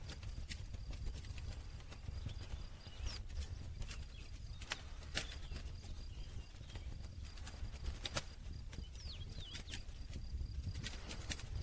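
Campfire burning: wood crackling with irregular sharp pops and snaps, a few louder than the rest, over a low steady rumble. A faint high pulsing tone runs underneath and stops near the end.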